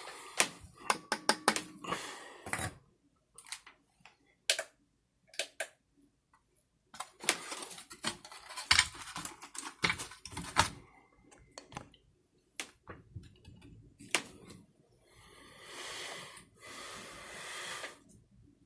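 Hands working on small parts: an irregular run of sharp clicks, taps and light knocks, then two longer scraping or rustling noises near the end.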